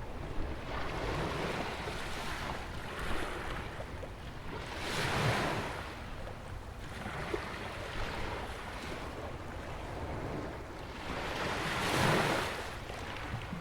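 Ocean waves breaking and washing on a sandy beach beside a jetty. The surf swells and ebbs in slow surges, the loudest about five seconds in and again near the end, over a steady low rumble.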